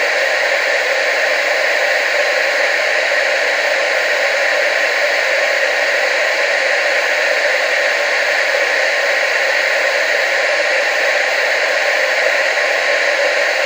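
Steady hiss of analogue TV static, an even rush of noise with most of its weight in the middle and upper range and almost no bass. It runs unchanged, with no clicks or breaks.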